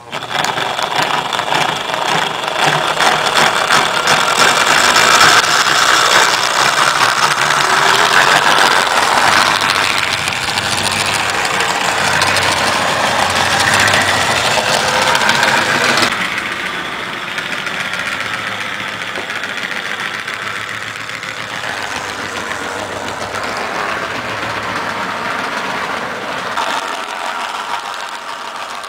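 HO scale electric model train running on its track: a steady whirring motor and wheel noise, close and loud at first, dropping to a lower, quieter level after a sudden change about 16 seconds in.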